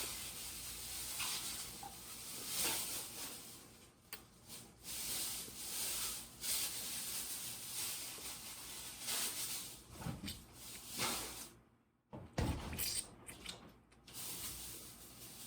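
Soft rustling and handling noises that come and go, with a few light knocks about two-thirds of the way through.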